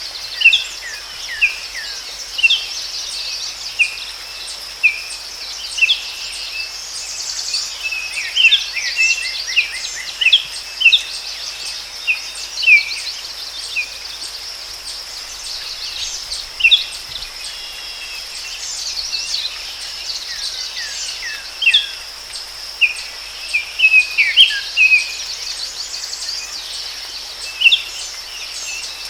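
Forest ambience: many small birds chirping and calling in quick, scattered notes over a steady, high-pitched insect drone.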